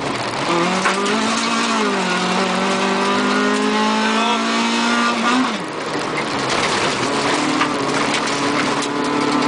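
Car engine revving hard, heard from inside the cabin: its pitch swings up and down at first, then climbs steadily for a few seconds. About five and a half seconds in it drops sharply and then holds steady, with road noise throughout.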